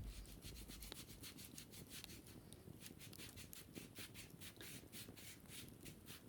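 Faint quick scratching strokes over a wicker basket, about five a second.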